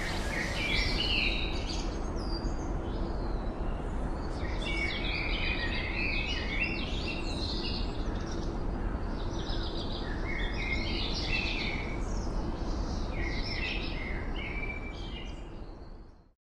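Small birds chirping and singing in short repeated phrases over a steady low background noise outdoors, fading out near the end.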